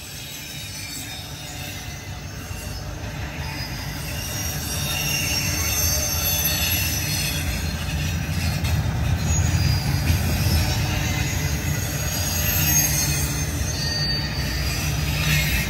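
A Norfolk Southern freight train's cars rolling past, their wheels squealing in thin high-pitched tones over a steady low rumble. It grows louder over the first several seconds, then holds.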